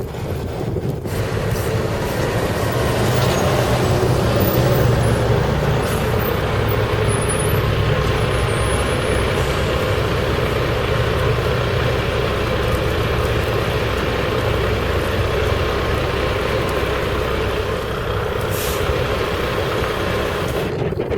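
A large vehicle's engine, such as a truck's or a bus's, running steadily for about twenty seconds. It starts about a second in and cuts off just before the end.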